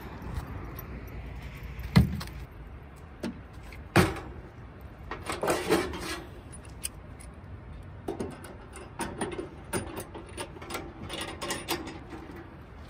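Camping gear being handled and set out: two sharp knocks, a clattering rattle a little after, then scattered clicks and small rattles.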